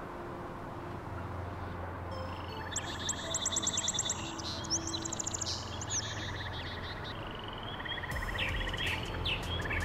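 Small birds singing in fast, repeated high chirps and trills over a steady outdoor background hiss.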